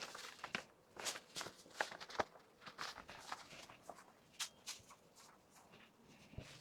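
Scattered light clicks and brief rustles of small items being handled and set down, irregular and thinning out near the end.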